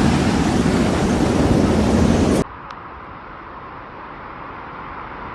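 Loud storm noise of heavy rain and wind blasting the microphone. It cuts off abruptly about two and a half seconds in, giving way to a much quieter steady background noise.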